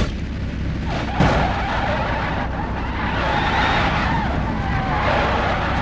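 Car engine running with a steady noisy rush like tyres on the ground, after a quick double knock about a second in.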